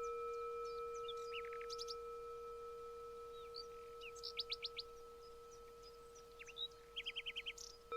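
Songbirds chirping: three quick runs of short falling notes, about a second and a half in, past four seconds and near seven seconds, the last the longest. Under them a steady ringing tone slowly dies away.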